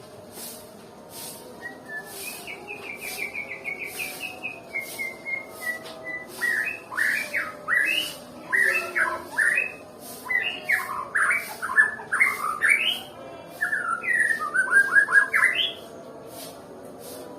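White-rumped shama (murai batu, Nias type) singing: a quick descending run of notes, then loud, varied whistled phrases with fast rising and falling sweeps, stopping shortly before the end.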